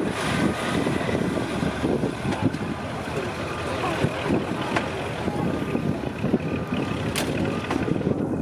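Heavy off-road truck engine running hard with an uneven low rumble, and a short sharp knock near the end.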